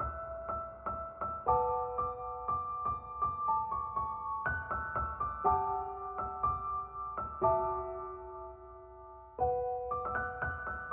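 Background solo piano music, with notes struck at an even pace of about two a second. The notes die away for a moment about eight seconds in before a new chord is struck.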